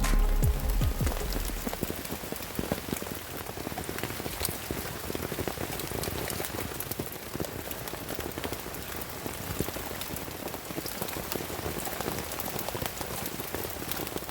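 Steady rain falling, with many individual drops striking a surface as sharp, close ticks over an even hiss.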